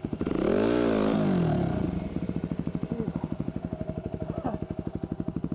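Enduro motorcycle engine revving up and back down about half a second in, then settling into a steady, evenly pulsing low-speed beat.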